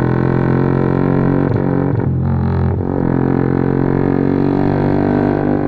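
Honda New CB150R with a Norifumi aftermarket exhaust, cruising with a steady, droning exhaust note. The note shifts briefly about two seconds in, then settles again.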